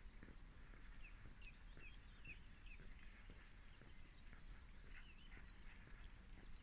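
Faint birdsong: small birds chirping in short, curving notes, a quick run of them about a second in and again about five seconds in, over a low steady rumble.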